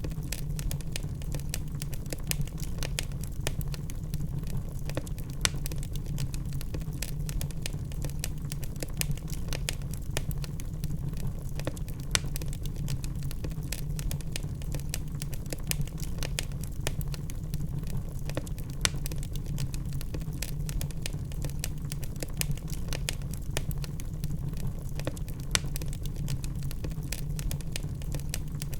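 Wood fire in a fireplace burning, a steady low rumble with frequent small sharp crackles and pops scattered throughout.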